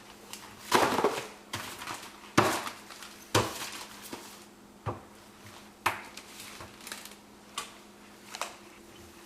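Household objects clattering and knocking as a toddler pulls things out of a drawer: irregular knocks and rattles, about eight in all, the loudest about a second in, over a faint steady hum.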